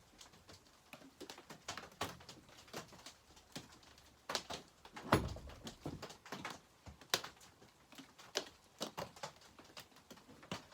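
Irregular clicks and light metallic taps of hand tools working a nut snug on a chainsaw part, with one louder knock about five seconds in.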